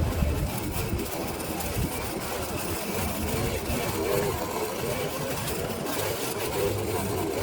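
A small engine running steadily under even load.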